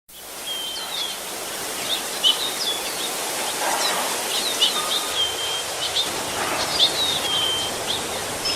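Outdoor birdsong ambience: several birds chirping and whistling in short repeated calls over a steady background hiss, fading in quickly at the start.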